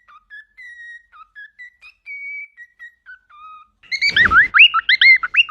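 A parrot whistling: a slow run of quiet, clear whistled notes at changing pitches like a tune, then, about four seconds in, a loud fast series of swooping whistles that rise and fall several times a second.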